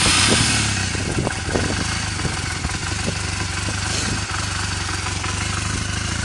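2000 Honda Rebel 250's air-cooled parallel-twin engine idling just after a cold start at about −15 degrees, having sat unused for five months. It eases down to a steady idle within the first second.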